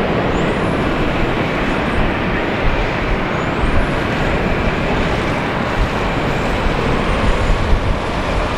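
Jet airliner engine noise: a loud, steady rushing rumble with faint high whines that rise in pitch now and then.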